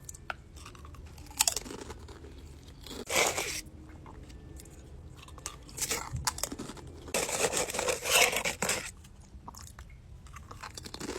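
Close-up crunching and chewing of crisp snacks, potato chips and cookies, in irregular bites. The longest run of crunching comes about two-thirds of the way in.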